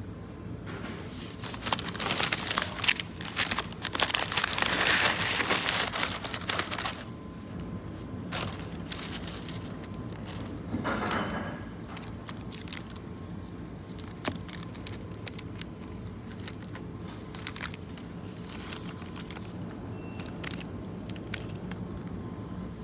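Rustling and crinkling handling noise for several seconds, with another short burst and scattered clicks later, over a steady low cabin hum.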